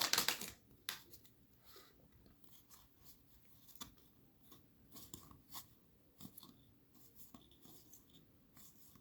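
A trading-card pack wrapper crinkling briefly, then faint, scattered clicks and ticks of cards being handled and flipped through by hand.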